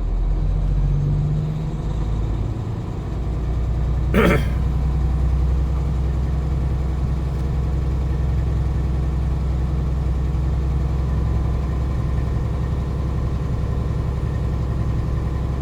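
Semi truck's diesel engine running steadily, heard from inside the cab as a low rumble. The engine note changes and dips briefly about two seconds in. A single short, sharp sound comes about four seconds in.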